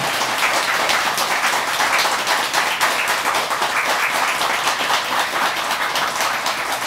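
Audience applause: many hands clapping at a steady level.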